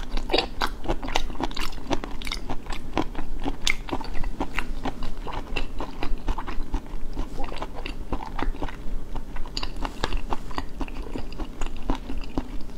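Close-miked chewing: a steady run of small, irregular crunches and wet mouth clicks, several a second, as a mouthful of food is chewed with the mouth closed.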